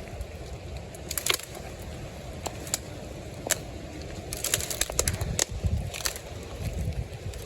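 Storm wind rumbling on the microphone, with footsteps crunching through twigs and leaf litter: scattered sharp cracks, thickest about four to five and a half seconds in, as the wind grows stronger.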